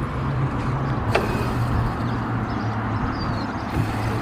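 Hyper 350 electric dirt bike's motor humming low as it is ridden, the hum shifting up and down in pitch with speed. There is a single sharp knock about a second in.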